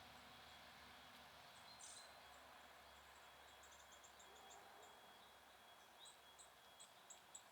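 Faint high-pitched chirps of small songbirds at a feeder over a quiet outdoor hiss. There is one call about two seconds in, a quick run of chirps a little later, and spaced chirps about every half second near the end.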